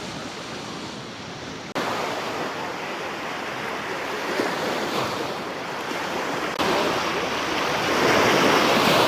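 Waves washing onto a Lake Nicaragua beach, with wind on the microphone. The surf jumps abruptly louder about two seconds in and again near seven seconds, loudest toward the end.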